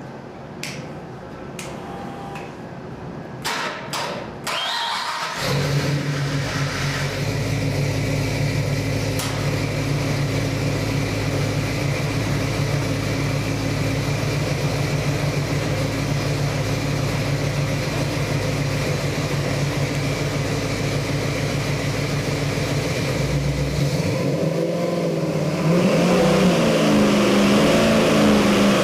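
Ford 351 Windsor small-block V8 crate engine on a dyno stand: a few sharp clicks, then the engine fires about five seconds in and runs at a steady idle. Near the end it is revved up and down a few times.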